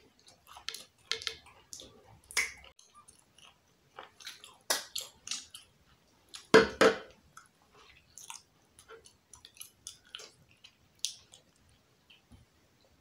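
Close-miked chewing and wet mouth sounds of people eating jollof rice, with scattered small clicks and a louder clatter about halfway through.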